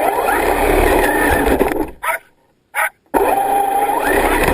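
A dog vocalizing loudly in two stretches, broken off abruptly about two seconds in and taken up again about a second later; each stretch carries a tone that rises and then holds.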